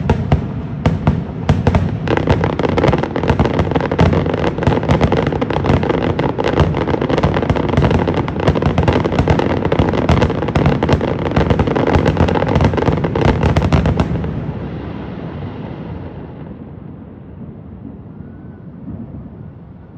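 Fireworks display in its finale: a rapid, dense barrage of bangs and crackling over a continuous rumble. It stops about fourteen seconds in, and the rumble dies away over the next few seconds.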